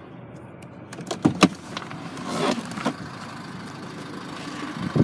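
Steady low rumble of a car, with a couple of sharp clicks and knocks about a second in, a brief rustle, and two more knocks near the end.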